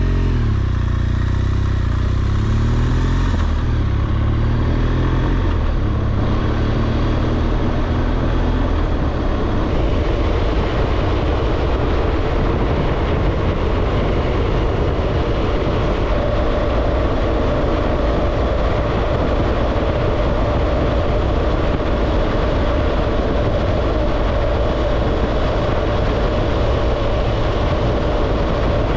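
BMW R1200GS Adventure's boxer-twin engine pulling away, its low note clear at first. From about nine seconds in, a steady rush of wind over the microphone drowns most of the engine as the bike cruises at speed.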